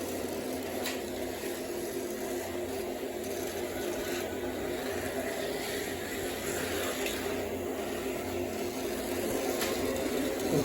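Small electric motors of a model train layout running: a steady hum with a rumbling haze.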